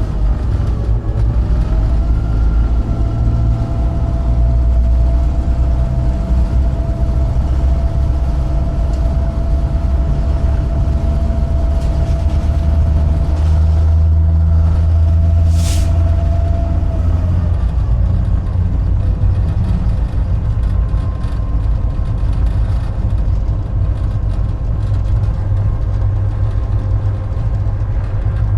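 Inside the cab of a GP38-2 diesel-electric locomotive under way: its EMD 16-cylinder 645 engine running with a steady low rumble and a steady whine over it that drops away about 17 seconds in. A short hiss comes about 16 seconds in.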